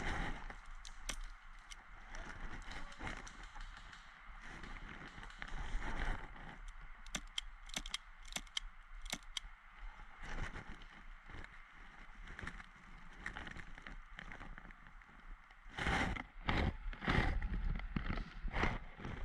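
Rustling and crunching of leaves and twigs underfoot in woodland, with a cluster of sharp clicks about seven to nine seconds in and heavier bumps near the end.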